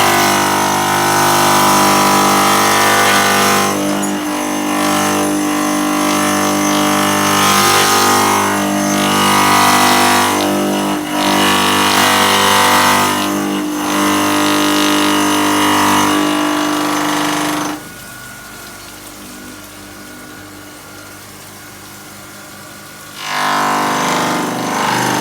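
Stone cutting and moulding-profiling machine running with a steady, loud machine hum of motor and cutter. About 18 s in it drops suddenly to a much quieter level, and it comes back up about five seconds later.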